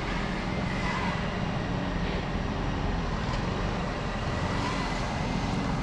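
A crane's engine running steadily, with a faint steady high whine above it.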